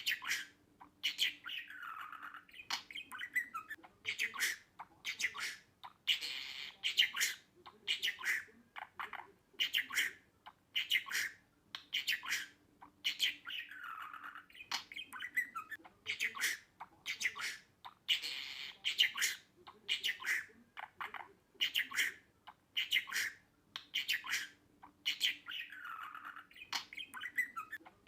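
Budgerigar chatter: quick chirps and squawks in a loop that repeats about every six seconds.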